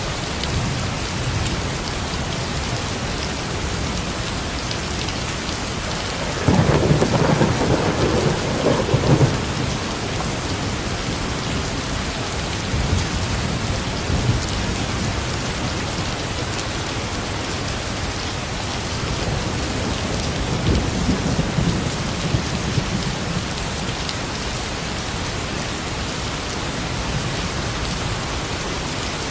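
Steady rain falling. A roll of thunder breaks in about a quarter of the way through and rumbles for about three seconds, with a fainter rumble of thunder later on.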